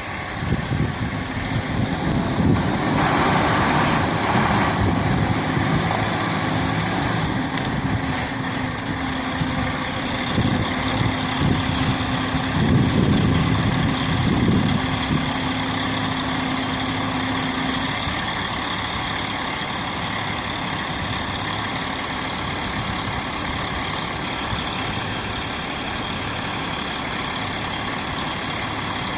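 Fire engine's diesel engine running as a heavy truck, with a few short air-brake hisses over the steady engine rumble.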